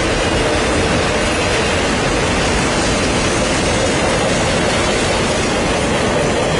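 Freight train cars rolling past, a loud steady roar of wheels on rail.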